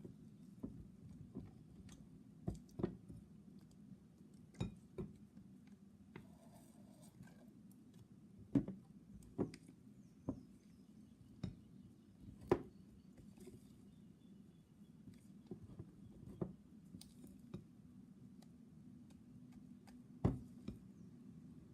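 Glue and borax slime being mixed: scattered light clicks and knocks at irregular intervals over a steady low hum.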